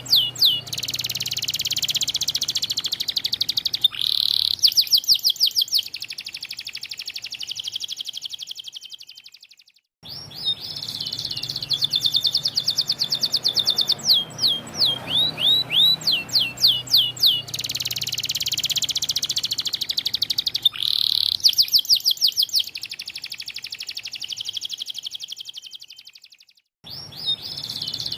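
White domestic canary singing a long, loud song of repeated sweeping whistled notes alternating with fast rolling trills, the song breaking off briefly twice, about ten seconds in and near the end.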